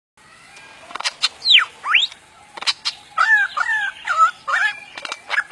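Superb lyrebird singing its mimicry song: a few sharp clicks, one loud whistle sweeping down and another sweeping up, then a quick run of warbled two-part notes.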